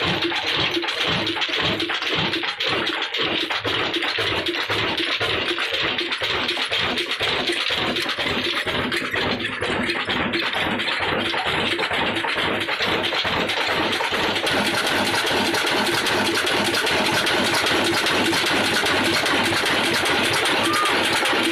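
Old Ruston & Hornsby diesel engine running with a slow, even beat of firing pulses, about two or three a second. About two-thirds of the way through, the sound turns denser and harsher, and the beat is less distinct.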